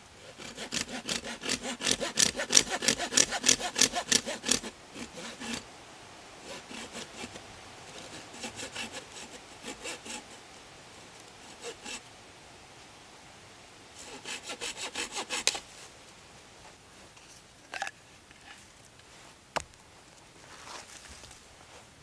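Hand saw cutting through wood in quick back-and-forth strokes: a long run at the start, a few slower strokes, and a second short run later. Two sharp knocks follow near the end.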